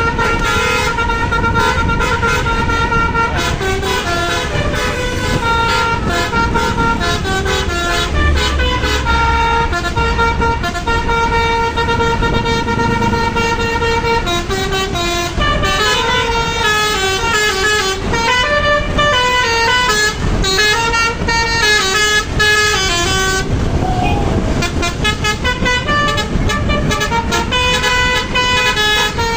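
Bus 'basuri' musical air horn playing a tune nonstop, its notes stepping up and down with some held for a second or more, over the rumble of traffic.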